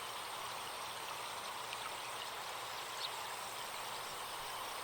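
Recorded forest stream flowing steadily, with faint short bird chirps now and then.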